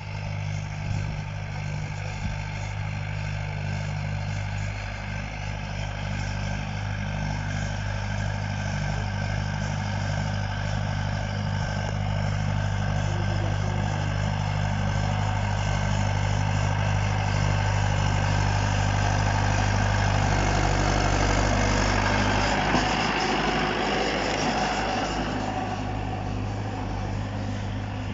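Mahindra 475 DI tractor's four-cylinder diesel engine running steadily with a harrow. It grows gradually louder; about three-quarters of the way through its note shifts and a broader mechanical noise swells, then eases off.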